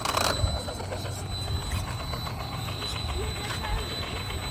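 Electric RC monster truck (Arrma 4x4 3S) driving slowly: a steady high motor and drivetrain whine over the low rumble of its tyres on pavement, with a brief louder scuff at the start.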